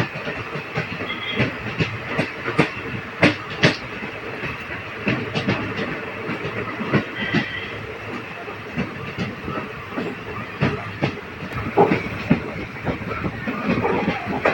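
Passenger train running along the track: a steady rumble of wheels on rails, broken by frequent, irregular clacks of the wheels over the rail joints.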